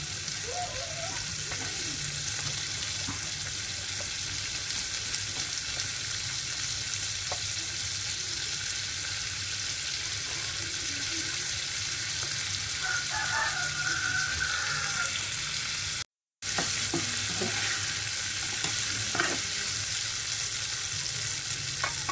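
Sliced carrots sizzling steadily in hot oil with a ground shallot, garlic and pepper paste in a frying pan, stirred now and then with faint scrapes and clicks. The sound cuts out for a moment about sixteen seconds in.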